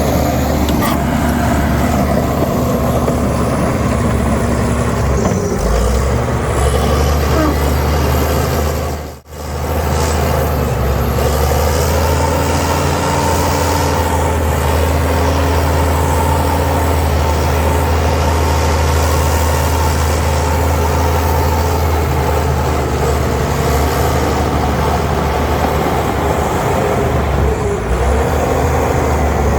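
Heavy diesel construction machinery running steadily under work, with a strong low engine drone. The sound drops out for a moment about nine seconds in, then carries on.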